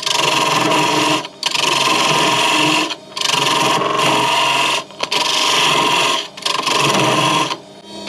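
Wood lathe spinning a small piece of wood while a turning tool is pressed against it, cutting in about five passes of a second or so each with short breaks between.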